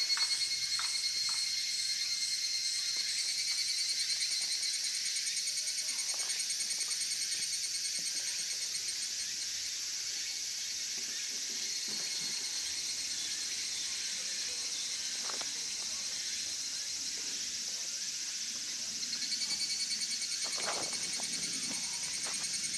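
Insects chirping steadily outdoors, a rapid pulsing trill of several high thin tones, with a few faint clicks.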